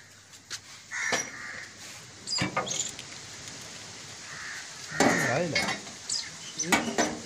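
A bird cawing several times, with sharp metal clicks of hand tools on the tractor engine's exposed cylinder head.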